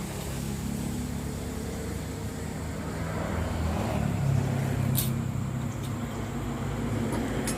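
An engine running steadily nearby, its pitch shifting slightly partway through, with two sharp clicks, one about five seconds in and one near the end.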